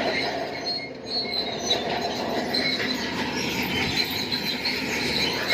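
Crawler bulldozer working, its steel tracks squealing and clanking with high screeching tones over the steady noise of the machine.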